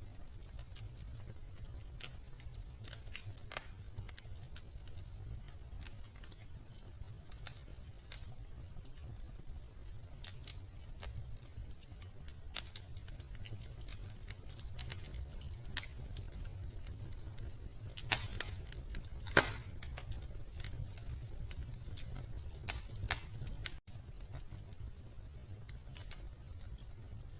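Wood fire crackling in a fireplace: scattered sharp crackles and pops over a low steady rumble, with a few louder snaps about two-thirds of the way in.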